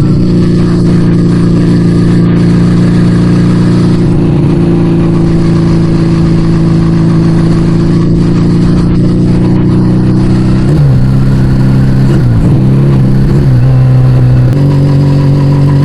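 Yamaha Vega ZR motorbike engine running through an Arrow aftermarket exhaust, revved up and held steady for about ten seconds; near the end the pitch dips and climbs a couple of times as the throttle is worked, then it holds steady again.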